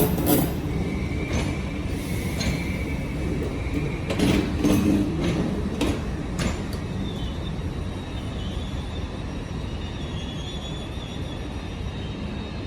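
Station platform ambience dominated by the steady low rumble of a train standing at the platform, with several short clicks and knocks in the first half and a faint, wavering high tone near the end.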